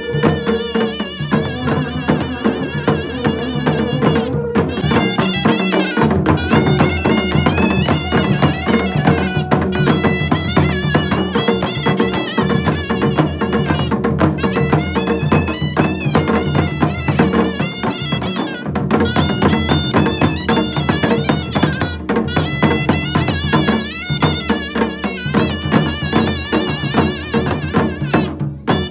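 Pahadi Nati folk music from the Himalayan hills: a melody over a steady, continuous percussion beat.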